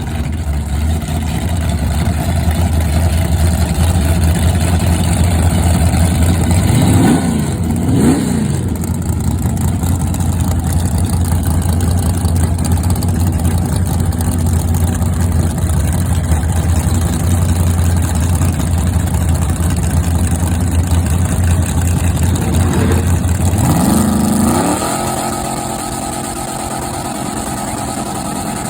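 Chevy Monza race car's engine idling with a loud, steady low rumble, blipped twice about seven seconds in. Near the end it revs up, and the sound then drops to a quieter, higher engine note.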